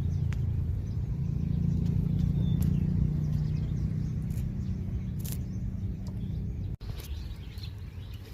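A steady low hum that stops abruptly about two-thirds of the way through, with a few faint bird chirps above it.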